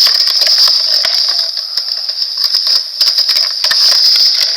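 Plastic clicks and rattling as a die-cast toy plane is worked loose from its plastic display stand and packaging, over a steady high-pitched whine.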